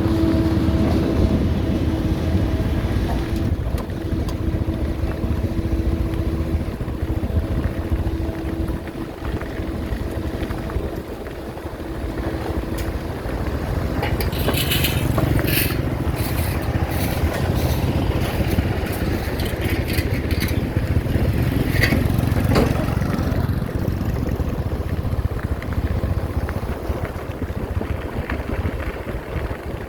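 Heavy road-paving machinery engines running steadily. A steady whine runs for about the first third, and a cluster of sharp metallic clicks and scrapes comes about halfway through.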